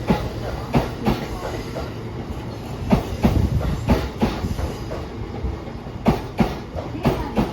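E353 series electric train rolling slowly into a station with a low, steady rumble. Its wheels clack sharply and unevenly over rail joints and pointwork.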